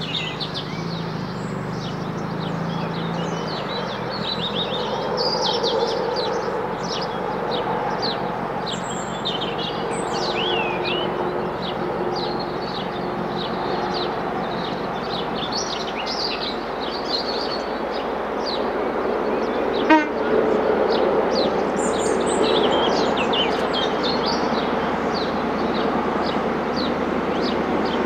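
Birds chirping and singing continuously over the steady approaching rumble of a Network Rail yellow HST measurement train, its power car's diesel engine and wheels on the rails growing a little louder in the second half. A single sharp sound stands out about two thirds of the way through.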